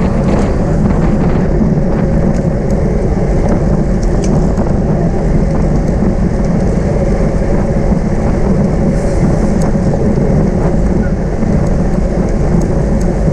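Wind buffeting the microphone of a camera riding on a racing bicycle at speed: a steady, loud, low rush with no breaks.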